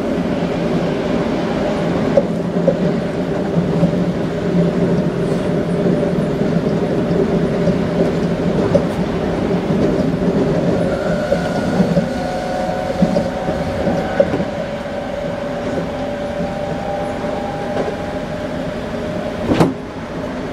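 Toei 5300 series commuter train running, heard from inside the car: a steady rumble of wheels on rail. About halfway through, the traction motors' whine comes in as two faint steady tones, and a single sharp knock sounds near the end.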